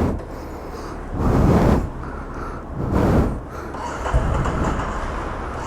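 Ducati Scrambler motorcycle being started after refusing to: two brief bursts of noise, then about four seconds in the engine catches and runs with a steady low sound.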